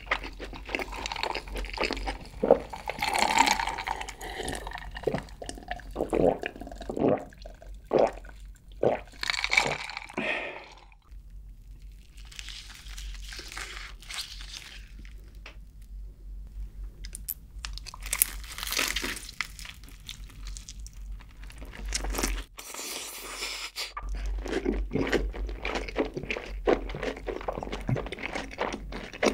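Close-up crunching and chewing of crispy, seasoned fried chicken (bburinkle chicken) in the mouth, with dense crisp crunches. The crunching eases off for a quieter stretch in the middle and picks up again near the end.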